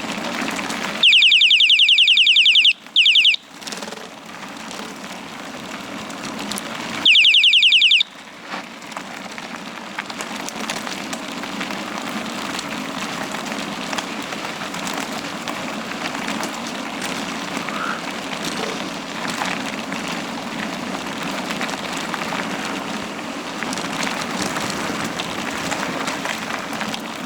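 Steady rush of wind and rolling-tyre noise from a bicycle coasting downhill. It is cut twice by a loud, shrill, high-pitched sound: once for about two seconds starting about a second in, and again briefly about seven seconds in.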